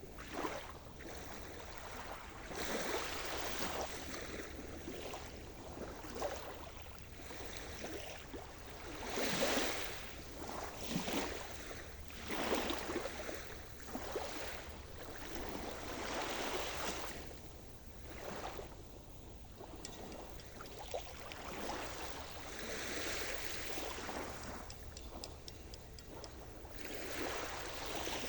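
Sea surf: waves breaking and washing up the shore, the rushing noise swelling and falling again every few seconds.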